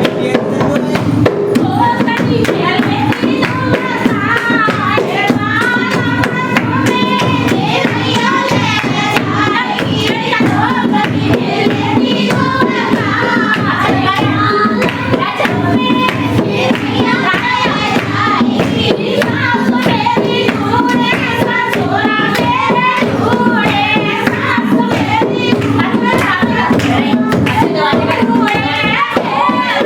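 Hindi dehati folk song: singing over a steady rhythmic accompaniment of hand claps and percussion.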